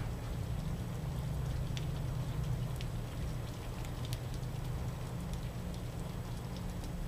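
Steady rain falling, with scattered single drops dripping and a steady low rumble underneath.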